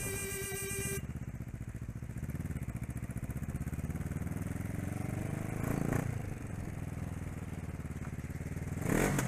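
Motorcycle engine running and pulling away, its pitch rising as it accelerates midway. A steady tone with overtones stops about a second in.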